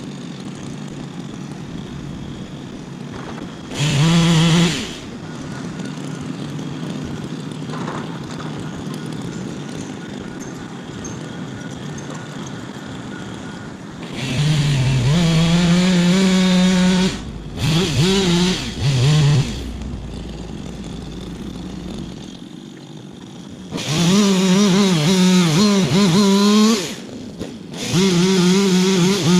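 Two-stroke chainsaw revved to full throttle in five bursts of one to three seconds each, its high engine note wavering as it cuts. A steady engine runs underneath between the bursts.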